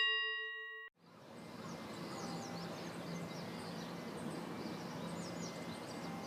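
Outdoor ambience with small birds chirping repeatedly over a steady background hiss. In the first second a held electronic tone fades out, with a brief gap before the ambience comes in.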